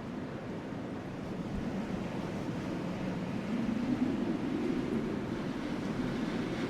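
Wind blowing steadily with a low rushing rumble that builds a little about halfway through.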